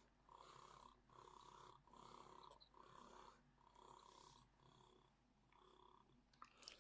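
Olympus 12-40mm Pro lens on a Panasonic Lumix G80 making a faint purring buzz in short pulses, about one every half second, as its focus ring is turned with the shutter half-pressed (manual override of autofocus). The purring stops after about four and a half seconds, and a couple of faint clicks come near the end.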